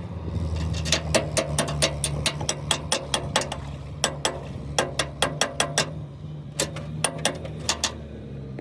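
Runs of sharp metallic clicks, a few a second, over an engine idling steadily. The clicks stop near the end.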